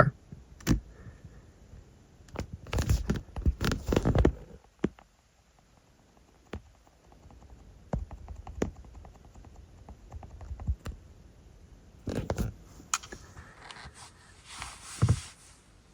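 Quiet scraping and rustling with scattered clicks and knocks.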